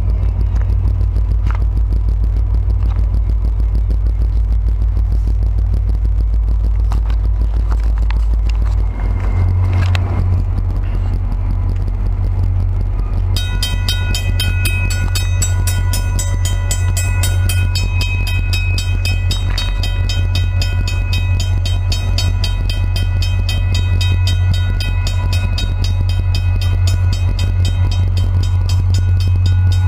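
A steady low rumble of a train on the line. About halfway through, the crossing signal's bell starts ringing rapidly and keeps going, which marks the crossing being activated as the train approaches.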